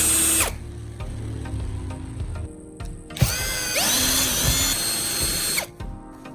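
Electric power tool motor spinning up with a rising whine, running steady for about two seconds, then cutting off sharply; a brief whirr at the very start as well. Background music underneath.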